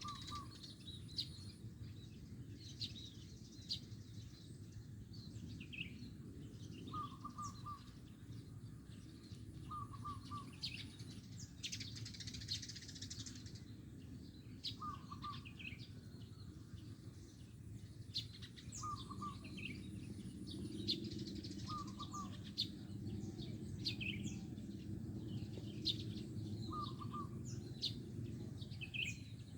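Zebra dove (perkutut) singing: short trilled cooing phrases repeated every three to four seconds, with other small birds chirping higher around it.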